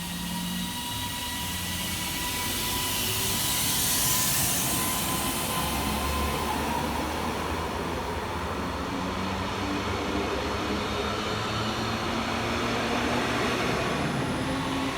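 Class 331 electric multiple unit pulling away from the station, its traction motors whining in tones that climb slowly as it gathers speed, over steady wheel and running noise.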